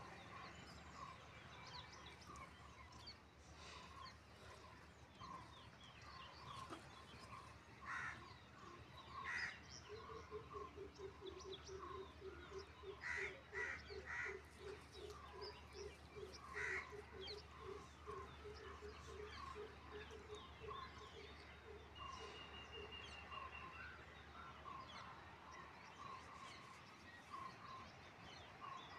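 Birds calling: a short chirp repeats about twice a second throughout. In the middle a long run of lower, quick repeated notes joins in, along with a few sharper, louder calls.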